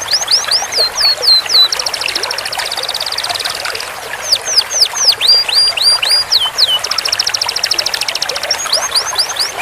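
Canary singing: rapid rolled trills held for a second or two, alternating with runs of quick downward-sweeping whistled notes.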